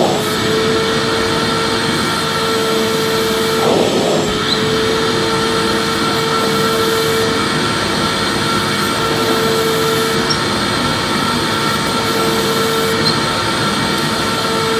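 Vacuum cleaner running steadily: a continuous rush of air with a constant motor hum, with a brief hitch about 4 seconds in.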